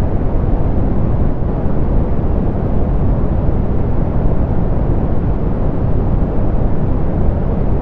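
Steady synthetic pink noise, softened with its highs cut: an even, unchanging hiss weighted toward the low end.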